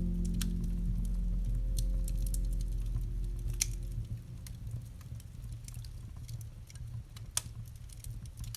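Wood fire crackling with scattered sharp pops, over a low sustained piano chord that dies away about halfway through, leaving only the crackle.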